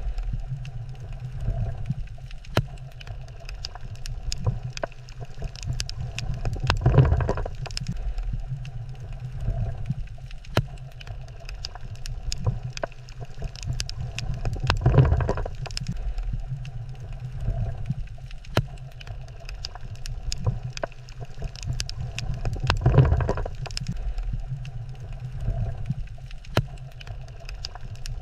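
Reef water ambience: a steady low rumble with scattered sharp clicks and crackles, and a louder whooshing swell about every eight seconds.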